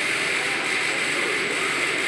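Steady, even mechanical noise of factory machinery running, with a faint high whine over it.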